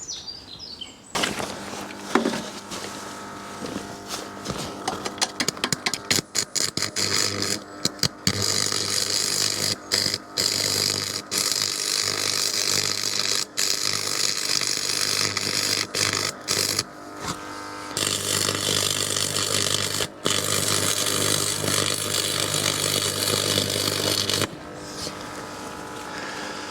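Electric arc welder making tack welds on steel trackbed: the arc crackles and sizzles over a steady hum, breaking off for a moment several times, and stops a couple of seconds before the end.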